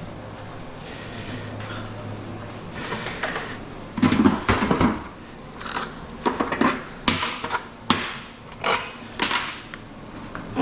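Scrap metal pieces clanking and knocking as they are handled: a loud clatter with some ringing about four seconds in, then a string of separate sharp knocks.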